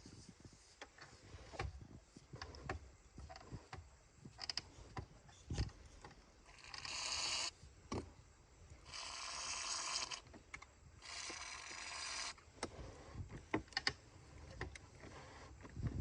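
Three hissing bursts of an aerosol spray can, each a second or so long, penetrating spray going onto a seized boat steering cable and linkage to free it, among light clicks and knocks of the metal parts being worked.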